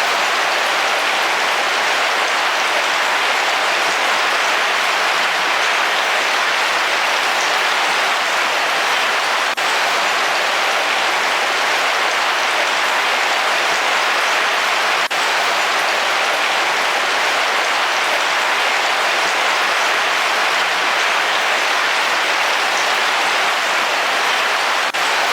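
Heavy rain falling steadily, an even continuous hiss of rain with no breaks.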